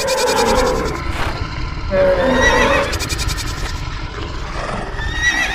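Stampede sound effects: a steady rumble of running hooves with patches of rapid clatter, overlaid by several animal calls that rise and fall in pitch.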